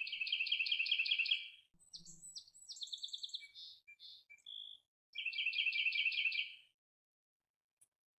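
A songbird singing: a phrase of about eight quick repeated notes, then a run of varied notes, then the repeated phrase again.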